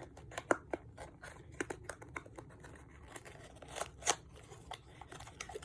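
Plastic car aroma diffuser being twisted and handled: faint, irregular small clicks and scratches.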